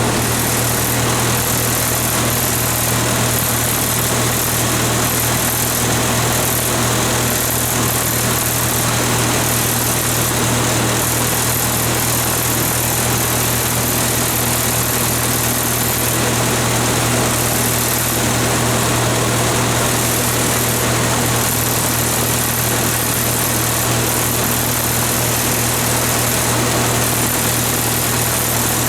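The Hercules IXB gasoline engine of a 1954 Hobart generator running steadily at idle, with an even, unchanging hum.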